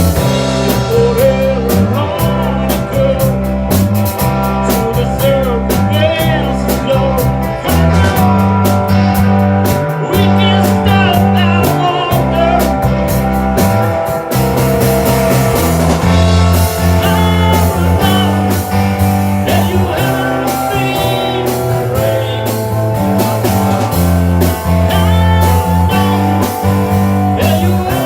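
Rock band playing a blues-rock song: a steady bass line and drums under a bending electric guitar lead, with some singing.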